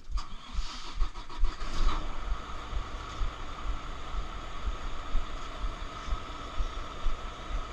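Volvo VNL760 truck's diesel engine being restarted on freshly replaced batteries. A busier first couple of seconds gives way to a steady idle with a low, regular thudding. The engine starts cleanly, passing a repeat-start check.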